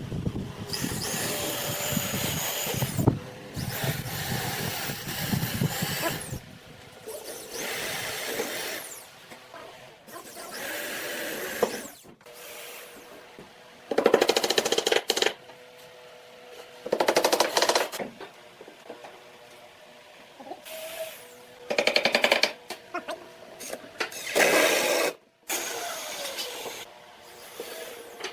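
Woodworking power tools working wood in repeated short bursts, each from half a second to a couple of seconds, with quieter gaps and a faint steady hum between them.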